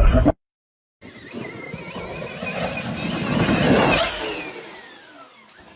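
A motor vehicle approaching and passing close by. Its engine sound builds to a peak about four seconds in, then drops in pitch and fades away.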